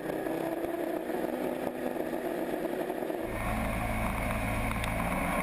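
Racing trucks' diesel engines running together, a steady mechanical drone. A deeper rumble swells in about three seconds in as the trucks come closer.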